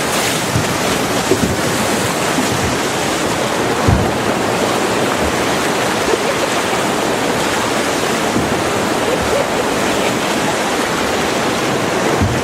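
Rushing whitewater of a river rapid heard from a boat running through it, with wind buffeting the microphone. A few short low thumps, the strongest about four seconds in.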